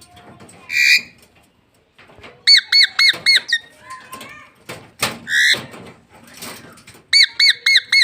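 Small pet parrot chirping and squawking: two quick runs of about five high, clipped chirps, with a harsh squawk about a second in and another around five seconds in.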